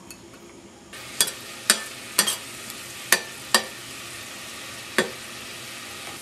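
Diced prosciutto sizzling as it lands in hot olive oil and garlic in a stainless steel saucepan, the hiss starting about a second in. A spoon knocks against the pan six times as the meat is stirred.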